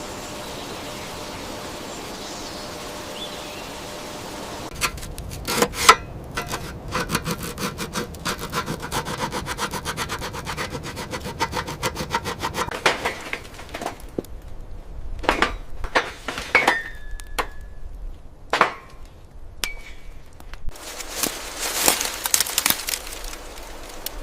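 A steady hiss, then a long run of quick, even scraping and rubbing strokes, followed by scattered knocks, a couple of short squeaks and more scraping near the end.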